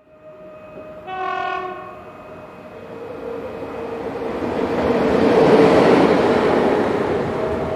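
Train horn sounding one short blast about a second in, then the train approaching and passing, its rumble growing to a peak about six seconds in before easing off.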